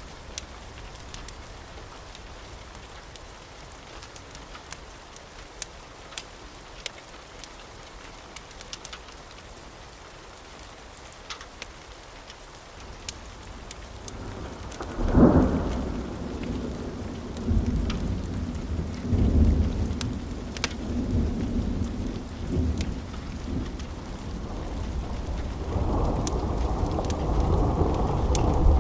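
Steady rain with scattered sharp crackles, then about halfway through a sudden thunder clap that rolls on as a long rumble, swelling again near the end.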